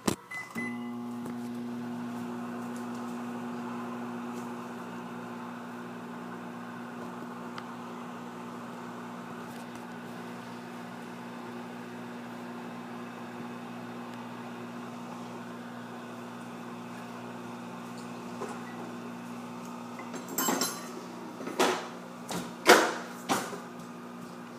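Microwave oven starting with a click and then running with a steady electrical hum while it heats a cup of chalk and water. Several sharp knocks come near the end.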